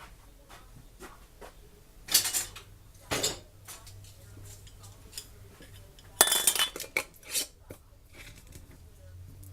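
Glass pint canning jars knocking and clinking against the canner as they are loaded in: a few separate clatters, the loudest about six seconds in.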